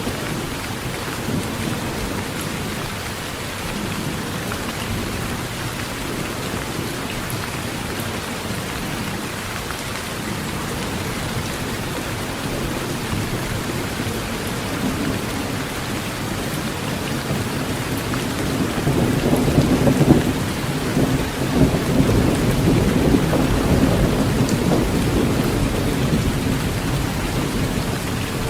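Heavy rain drumming steadily on a metal tin roof. A long low thunder rumble swells up about two-thirds of the way in, then fades.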